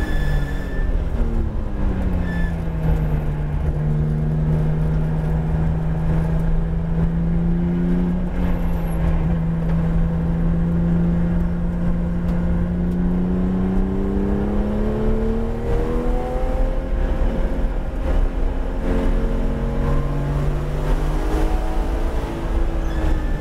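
Porsche 911 GT3 RS's naturally aspirated flat-six, heard from inside the cabin on track. Its note falls as the car brakes for a slow corner and holds a steady low pitch through the corner. About two-thirds of the way through it rises again as the car accelerates hard, over constant road and tyre rumble.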